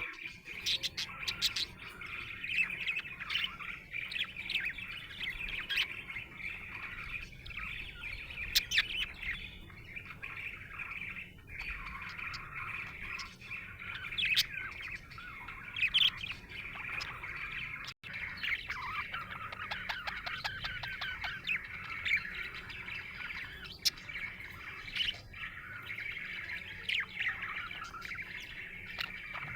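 Budgerigar warbling and chattering without pause, with many short, sharp chirps standing out above the run of chatter. This is the contented chatter of a happy budgie.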